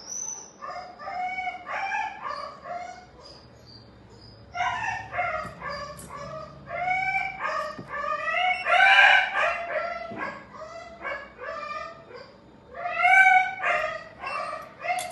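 A small animal crying: many short, high-pitched calls, about two or three a second, in three bouts with brief pauses between.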